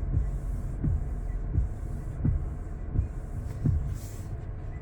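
Windshield wipers sweeping back and forth, a low thump about every three-quarters of a second, over a steady low hum, heard from inside the cab.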